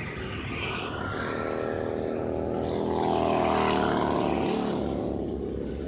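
Harley-Davidson motorcycle with an aftermarket exhaust running by, its engine note rising to its loudest about three and a half seconds in and then dropping away.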